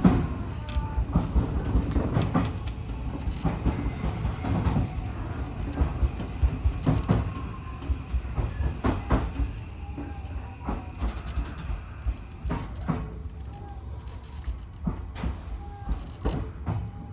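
Odakyu 1000-series electric train running along the track: a steady low rumble of wheels on rail with many irregular clicks and knocks.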